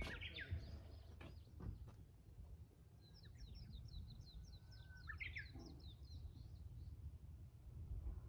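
Japanese bush warbler singing faintly: a long steady whistle followed by a quick flourish of notes about five seconds in, the classic "hoo-hokekyo" song. A fast run of short high chirping notes starts about three seconds in.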